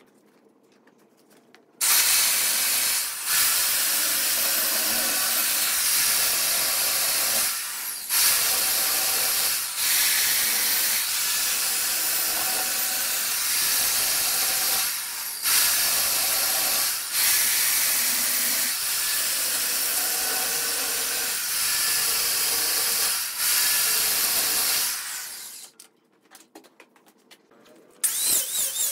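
Redwood spinning on a wood lathe while a tool works it: a loud, steady hiss of tool on wood. It starts about two seconds in, dips briefly a few times, and stops a few seconds before the end.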